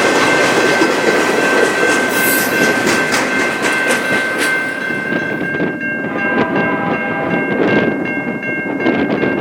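Train passing close by, its wheels clattering over the rails. A steady high ringing tone is held throughout, and the rumble eases a little after about five seconds.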